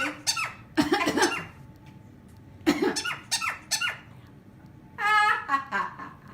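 An animal making a series of short, squeaky calls with a wavering pitch, about six in all, with short gaps between them.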